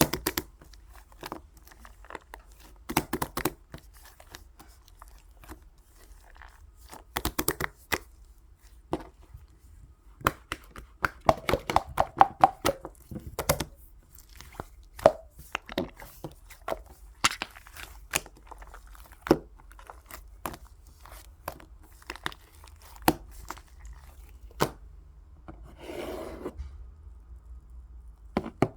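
Slime being squished and pressed by hand, giving irregular sharp clicks, pops and crackles, coming in quick clusters now and then.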